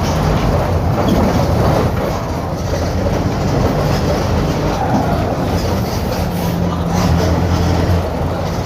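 Diesel engine of a Mercedes-Benz OF-1721 bus running under way through a holed exhaust, a loud, rattling rumble. The engine note strengthens for a couple of seconds near the end, then eases.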